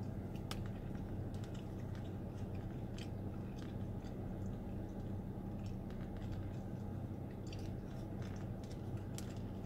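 A person chewing food with the mouth closed, with small wet mouth clicks scattered through, over a steady low hum.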